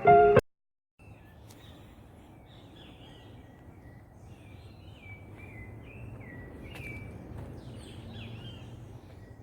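A loud snatch of music ends abruptly at the very start. Then songbirds chirp and call repeatedly in short sliding notes over a steady low background rumble of the outdoors.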